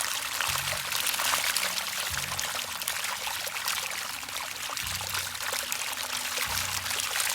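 Continuous splashing water, a dense crackle of many small splashes, typical of a crowd of fish churning the surface while feeding.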